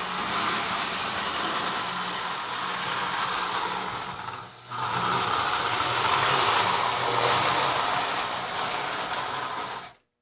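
Toy electric train (Marx 1666 locomotive) running on its track: a steady motor whir and wheel rattle with a faint hum. It dips briefly about halfway through and cuts off abruptly near the end.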